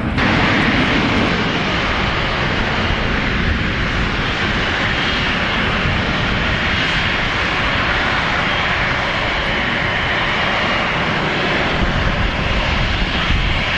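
Airliner's engines running loud and steady: a broad roar with a faint high whine above it.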